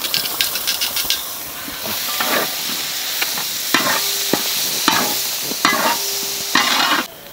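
Ground green chilli paste and chopped tomatoes sizzling in hot oil in a large metal pot while a steel ladle stirs them, with several scraping strokes of the ladle against the pot. Light clicks near the start as the tomato pieces drop in.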